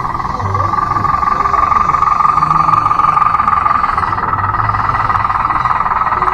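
Steady high-pitched whine of a converted Bruder D5 RC bulldozer's electric drive motors and gearing, growing a little louder about a second in.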